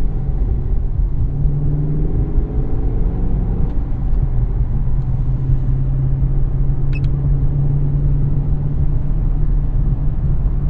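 2017 Chevrolet SS's 6.2-litre V8 running steadily at low revs, heard from inside the cabin.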